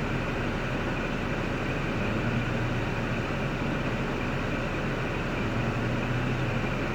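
3.6L V6 of a 2005 Cadillac STS idling steadily, with a low, even hum.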